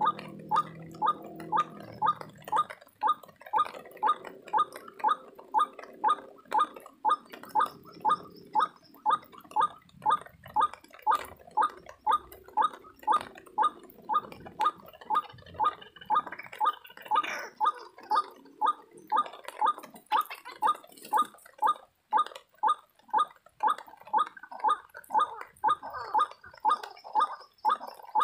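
White-breasted waterhen calls: a steady, rhythmic run of loud, hoarse 'ruak' notes, about two a second.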